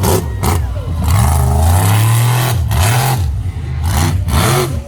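Devastator monster truck's engine revving hard in repeated surges, its pitch climbing and dropping several times.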